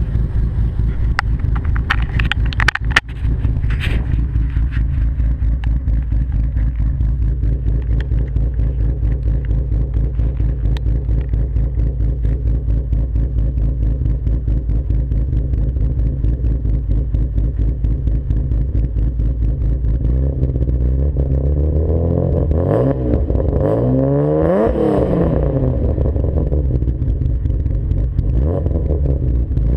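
BMW S50B32 3.2-litre inline-six running through a B&B cat-back exhaust, holding a steady note with a few knocks near the start. About twenty seconds in it is revved up and back down a few times.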